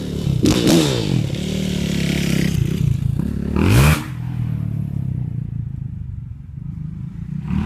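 Dirt bike engine revving up and down, with one sharp rev just before the midpoint, then settling to a lower, steady running note.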